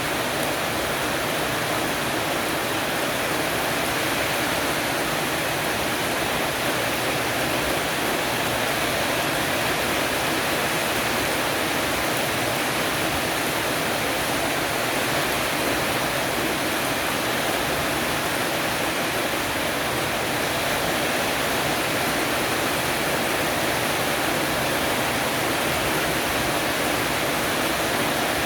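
Heavy rain falling on a porch roof, a steady, even hiss with no breaks.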